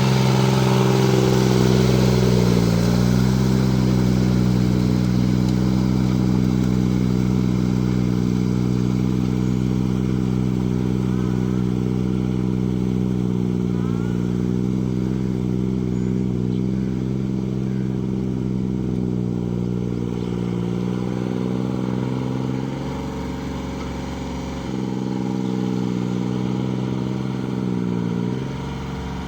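Kubota L2202 tractor engine running steadily. Its pitch dips briefly a few times, as when the engine takes on load.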